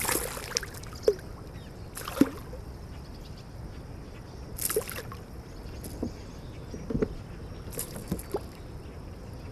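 Water splashing around a kayak as a hooked smallmouth bass is fought at the surface: several short splashes at irregular intervals.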